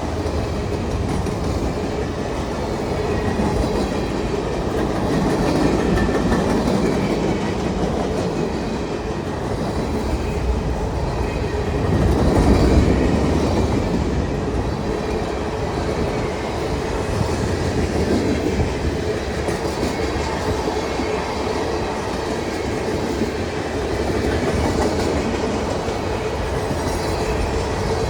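Cars of a CSX manifest freight train rolling past, a steady rumble and clatter of steel wheels on the rails, swelling briefly about twelve seconds in.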